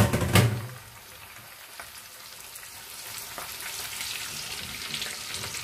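Breaded sardines deep-frying in a pan of hot oil: a steady bubbling sizzle that grows slowly louder. A brief louder burst comes in the first half-second.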